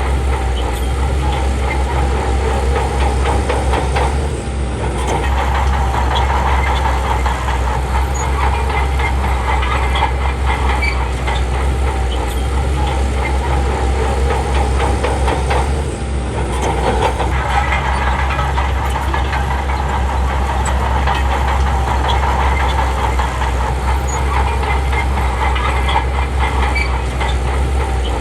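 Crawler bulldozer's diesel engine running steadily under load, with the steel tracks clanking and clattering continuously. The sound dips briefly twice.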